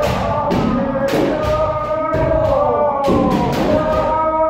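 Several kendo practitioners holding long kiai shouts at once, overlapping on sustained pitches, with sharp cracks of bamboo shinai strikes and stamping footwork cutting through several times.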